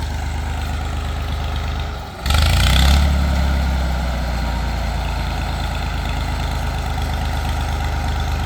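Tractor engine running at idle; about two seconds in it dips briefly, then picks up suddenly with a short burst of hiss-like noise and runs on steadily a little louder, as the driver works the throttle and gears trying to reverse.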